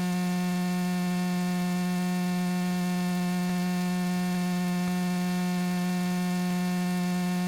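Steady electrical hum in the cockpit audio feed: one unchanging buzzing tone with a ladder of even overtones.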